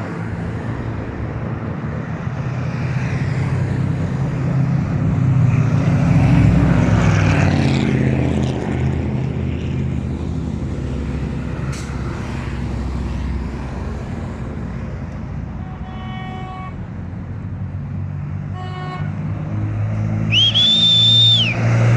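Pickup trucks of a caravan driving past with engines running, swelling loudest as one passes several seconds in. Short horn toots sound twice in the second half, and a high, steady tone lasts about a second near the end.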